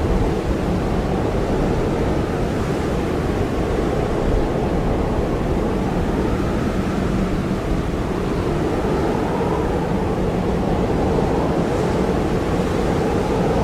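Blizzard wind blowing hard and steadily: a dense rushing noise with a faint wavering whistle in it.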